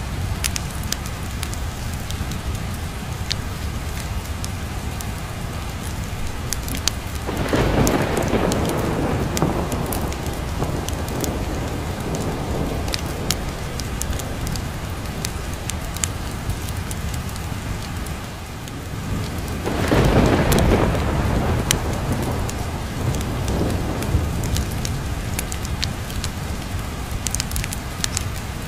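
Steady rain of a thunderstorm, with scattered sharp ticks, and two rolls of thunder, the first about a quarter of the way in and the second, louder one about two thirds in, each rumbling for a few seconds before fading back into the rain.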